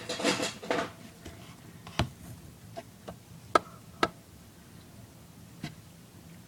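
Handling of plastic toy-truck parts: a brief rustle, then four separate sharp clicks and knocks as pieces are put in place.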